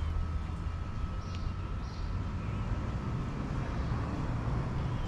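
An engine running steadily at a constant speed, with a faint steady whine above the rumble. A bird chirps twice.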